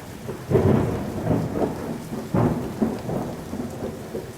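Thunderstorm ambience: steady rain with rolls of thunder, the loudest rumbles about half a second in and again about two and a half seconds in.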